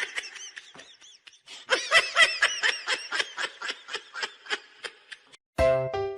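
A person giggling in a long run of quick, high-pitched laughs that stops shortly before the end.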